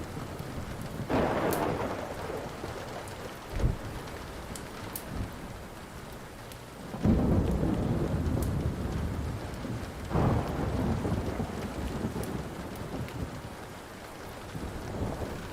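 Thunder rolling over steady rain: one rumble about a second in, the loudest about seven seconds in and another about ten seconds in, with a short thud near four seconds. Scattered small crackles of a wood fire run over the rain.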